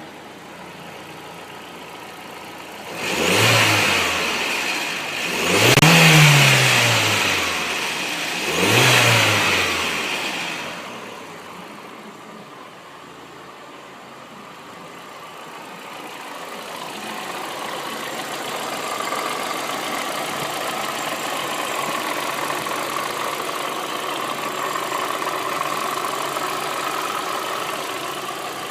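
Audi 1.8-litre turbocharged four-cylinder (AJL) engine idling, then revved three times in quick succession, each blip rising and dropping back. It then returns to a steady idle, with a steady hum that slowly grows louder over the later part.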